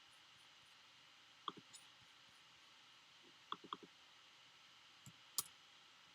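Faint computer mouse and keyboard clicks over quiet room tone: a couple about a second and a half in, a quick run of four about halfway, and two sharper ones near the end.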